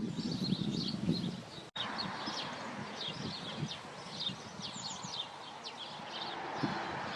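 Small songbirds chirping and twittering in short, high, rapid calls, with a low rumble underneath for the first couple of seconds.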